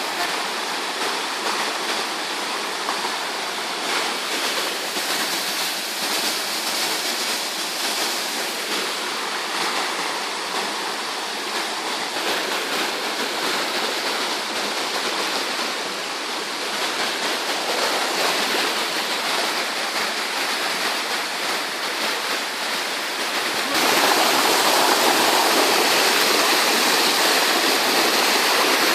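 Waterfall: a steady rush of falling water, which turns suddenly louder near the end.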